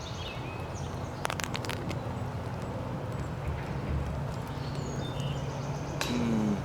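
Outdoor field ambience: steady background noise with short high bird chirps now and then, and a brief cluster of sharp clicks a little over a second in.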